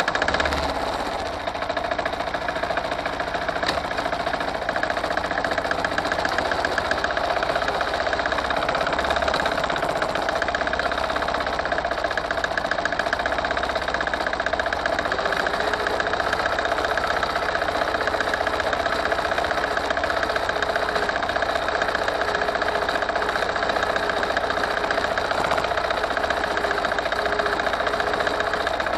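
Forte 135E walk-behind tractor's engine, just started, running steadily.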